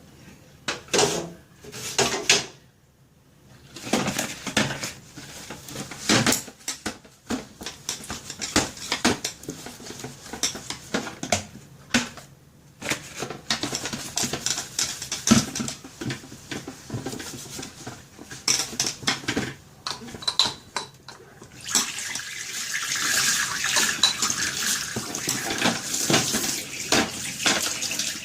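Fridge shelves, trays and boxes being scrubbed and knocked about in a kitchen sink, in irregular clatters and knocks. A tap starts running steadily about three quarters of the way through.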